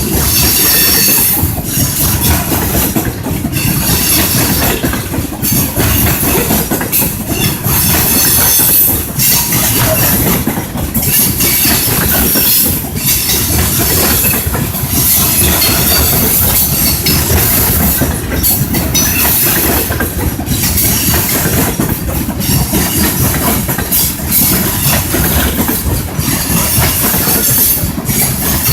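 Train running on rails at close range: a continuous loud rumble of wheels on track with a high hiss, dipping briefly every second or two.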